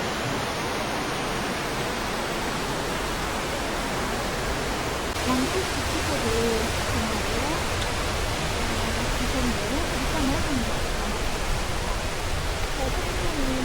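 Steady rush of a mountain waterfall and stream, growing slightly louder and brighter about five seconds in. Faint voices can be heard under it.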